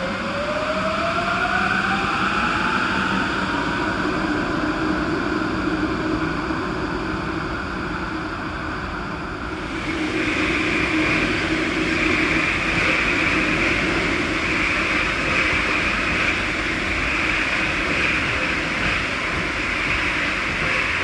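Rubber-tyred MP14 metro train accelerating, its electric traction motors whining up in pitch over the first few seconds before settling into steady running noise. About ten seconds in, the running noise changes and turns brighter and hissier.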